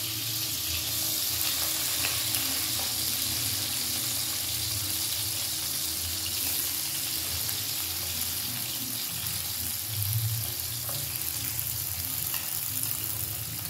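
Shrimp frying in hot oil in a wok, a steady sizzle.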